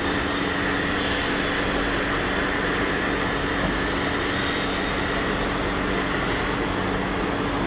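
Steady machine running noise with a constant low hum and a faint higher whine, unchanging throughout.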